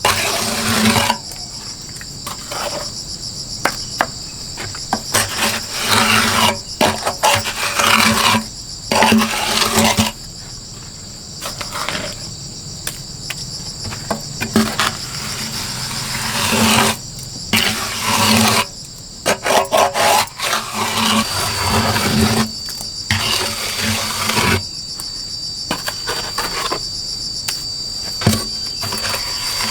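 Insects chirring steadily, with a thin high whine joining about two-thirds of the way through. Short, irregular noisy bursts of handling or work sounds come and go over it.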